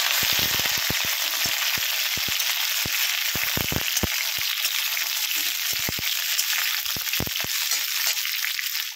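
Ridge gourd pieces frying in hot mustard oil in a wok: a steady sizzle broken by frequent sharp crackles as the oil spits.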